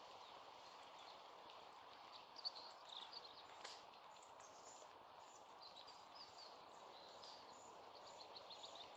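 Faint steady background hiss, with small birds chirping in short, high notes from about two seconds in. A brief click sounds near the middle.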